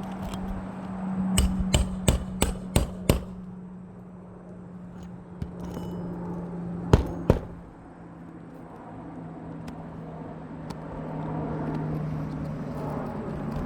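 Hammer driving roofing nails into asphalt shingles: a quick run of about six sharp blows, then two more a few seconds later.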